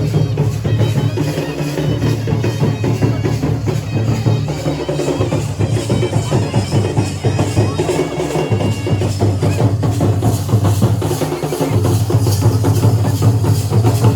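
Dhol and nagada drums played together in a fast, continuous rhythm of dense strokes without a pause.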